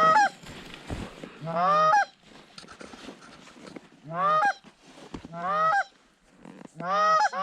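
Canada goose honks, about six in all, each a short note that breaks upward at its end, spaced a second or so apart.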